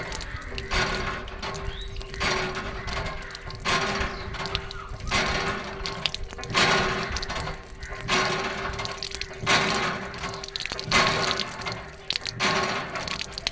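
Water gushing and splashing in repeated surges about every second and a half, over a steady low hum.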